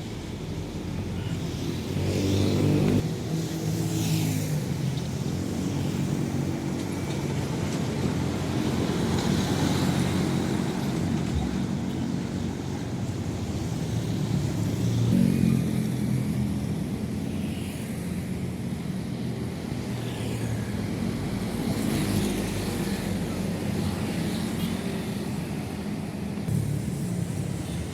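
Heavy trucks and buses driving past on a road one after another, their engines running with a low drone that swells and fades as each vehicle passes, about five times.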